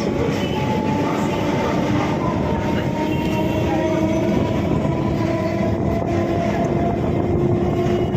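Electric multiple unit (EMU) local train running: a steady rumble of wheels and car body, with a faint whine that slowly rises in pitch.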